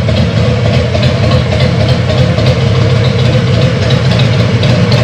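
Motorcycle engine running steadily, a loud, even low-pitched engine sound.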